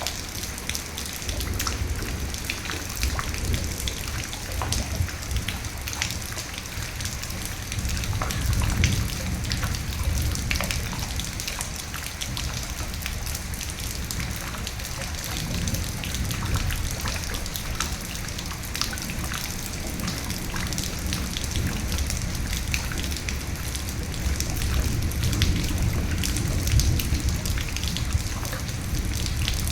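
Steady rain with many distinct drops clicking sharply on a surface, over a low rumble of distant thunder that swells about nine seconds in and again near the end.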